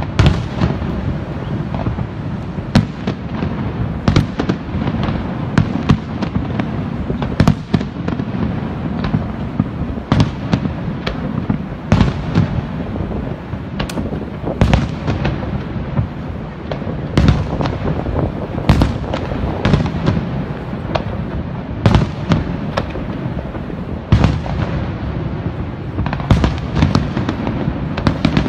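Aerial fireworks shells bursting in irregular succession, sharp bangs about once or twice a second, over a steady low rumble.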